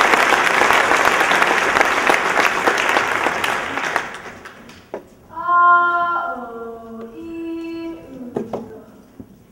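Audience applauding, fading out over the first four seconds. Then a single voice sings a few held notes, stepping from one pitch to the next.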